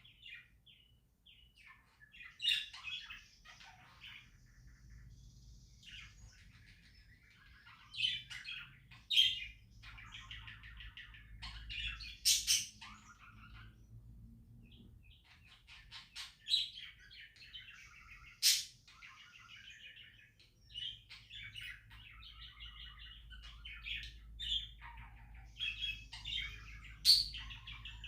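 Budgerigars chirping and chattering in short, busy bursts, with a few sharp clicks in between.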